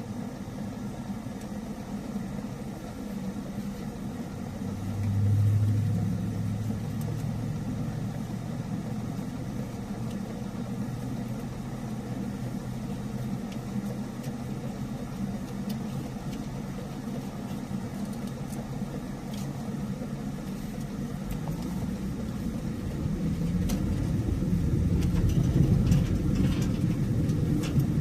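A vehicle on the road, heard from inside the cabin: a steady engine hum under road and tyre noise. There is a brief low swell about five seconds in, and the sound grows louder over the last few seconds.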